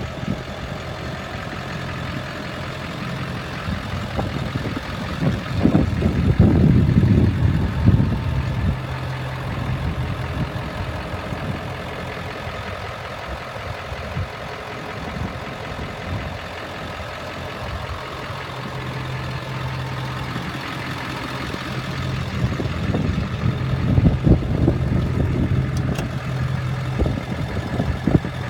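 Ford F-350 pickup's 7.3-litre V8 engine running steadily, louder for a few seconds about five seconds in and again near the end.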